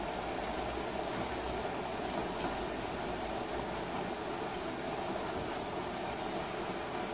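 Steady rain, a constant even hiss and rumble with no thunder.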